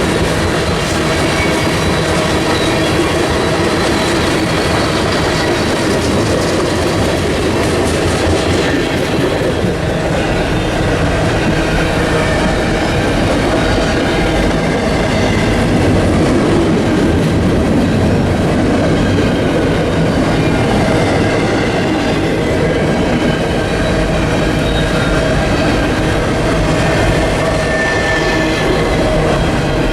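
Train rolling past, loud and steady, its railroad cars clicking over the rail joints with a faint squeal of steel wheels on the rails.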